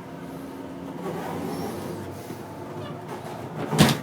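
Passenger train running, a steady low rumble heard from inside the car, with a single loud thump near the end.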